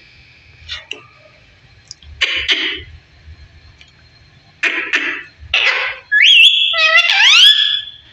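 A parrot calling: three short raspy squawks, then about two seconds of loud, rising whistles.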